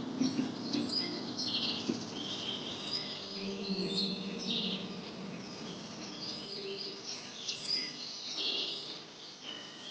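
Several birds chirping and calling in short, quick, overlapping phrases.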